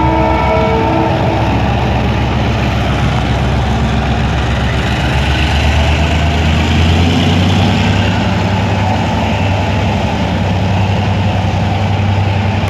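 Diesel train engine running with a steady low drone that swells partway through. A held tone, likely the train's horn, fades out about a second in.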